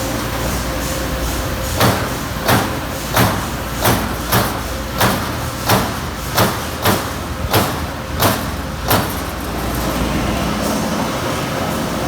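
33-ton Amada Pega 357 CNC turret punch press running with a steady hum and punching sheet metal: about a dozen sharp, evenly spaced punch hits, roughly one and a half a second, that stop near the end.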